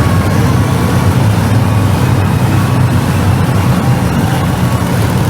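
Monster truck engine running loud and steady, its sound sitting low in pitch.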